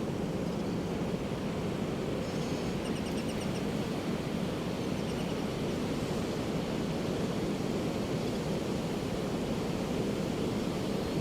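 Steady rush of Pacific surf washing onto a beach, with no distinct single wave crash. Faint, quick high chirps of a bird call come through about two to three seconds in and again briefly around five seconds.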